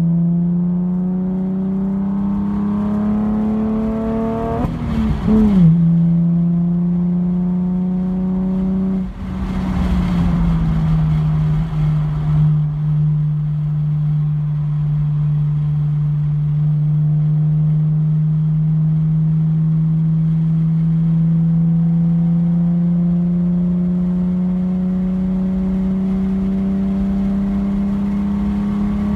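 Car engine heard from inside the car at speed on a race track, pulling under load with its note climbing. The note breaks briefly about five seconds in and again about nine seconds in, then rises slowly and steadily as the car accelerates along a straight.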